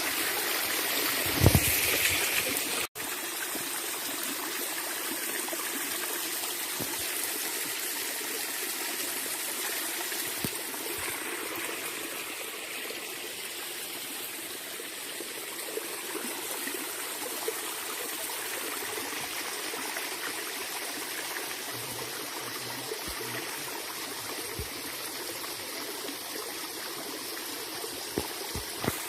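Water of a small waterfall and stream running steadily over rocks. A loud low thump comes about a second and a half in, and the sound breaks off sharply near three seconds before the same rush resumes.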